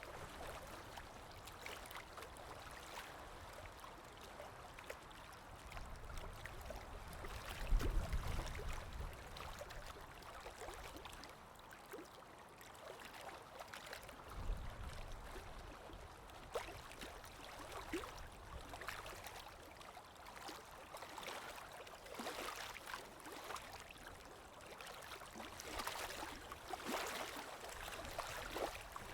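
Water lapping and splashing gently, with wind gusting low underneath and swelling about eight seconds in and again near the middle.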